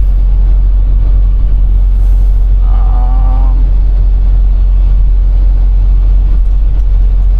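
Semi truck's engine rumbling steadily while driving, heard inside the cab, with a short high hiss about two seconds in and a brief voice about three seconds in.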